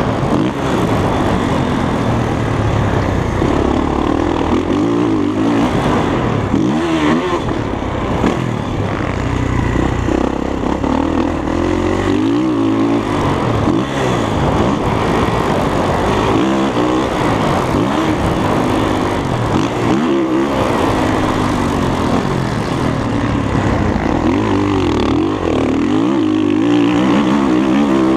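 Dirt bike engine being ridden hard, revving up and dropping off again and again as the throttle opens and closes.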